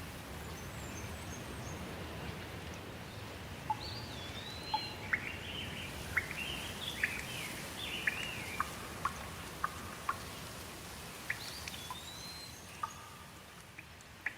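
Steady rain hiss with a bird calling over it: a run of short whistled and chirping calls, some rising or curving in pitch, starting about four seconds in and stopping shortly before the end. The rain eases off near the end.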